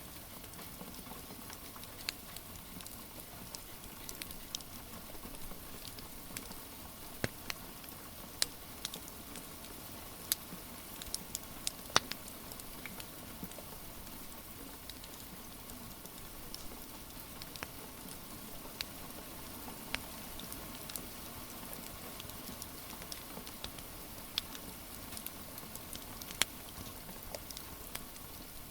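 Steady rain with a wood fire crackling over it: irregular sharp pops and snaps, the loudest about twelve seconds in.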